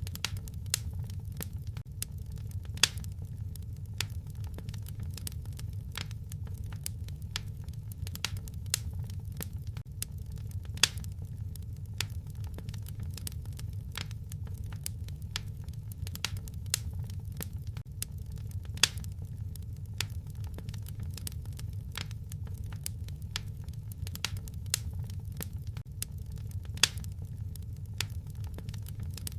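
Wood fire crackling in a fireplace: a steady low rumble of flames with frequent sharp pops and snaps. The same pattern of louder pops comes back about every eight seconds, as in a looped recording.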